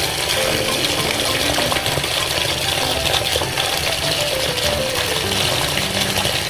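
Water running steadily from a tap, over background music that plays a simple stepping melody.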